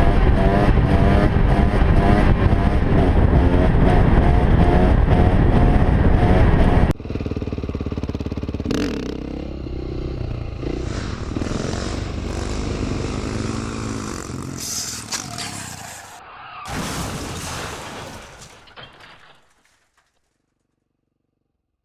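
Dirt bike engine revving loudly, its pitch climbing over and over in quick rises. After an abrupt cut about seven seconds in, a quieter, shifting engine sound with gliding pitch fades away to silence near the end.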